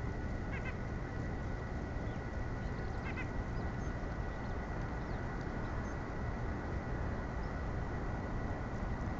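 Short bird calls at a feeder, one about half a second in and another about three seconds in, with a few faint high chirps later, over a steady outdoor hiss and a faint constant high tone.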